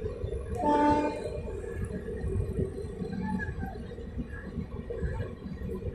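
Rajdhani Express passenger train rolling slowly through a station: a low, uneven rumble of the coaches on the track, with a brief pitched tone just under a second in.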